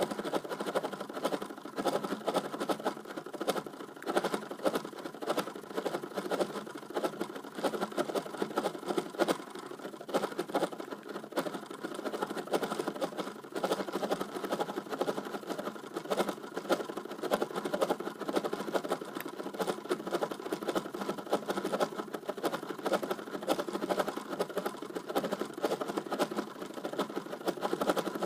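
Imitation engine-revving sound from a small electrical device: a steady, buzzy drone with rapid flutter and no deep bass.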